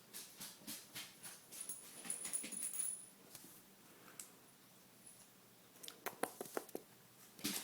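Cats' paws scampering and scrabbling on the floor while chasing a laser dot. The sound is a series of quick light taps and knocks in two flurries, the second near the end.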